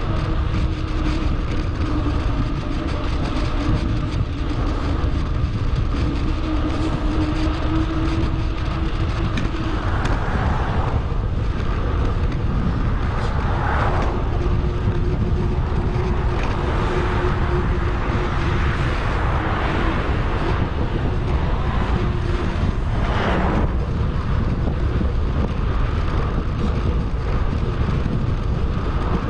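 Wind rushing over an action camera's microphone on a moving bicycle, with road and tyre noise, played back sped up. A steady low rumble throughout, with a faint hum that drops out and comes back, and three short swells of noise, about ten, fourteen and twenty-three seconds in, that sound like vehicles passing.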